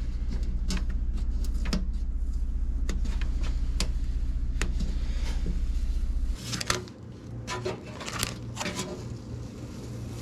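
A machine's steady low hum that cuts off suddenly about six seconds in, under scattered light clicks and knocks of metal parts and tools being handled.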